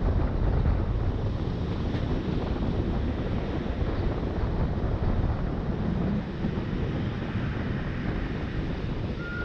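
Running noise of an RhB ABe 8/12 "Allegra" electric train under way: a steady low rumble with wind buffeting the microphone. A brief high squeal comes in right at the end.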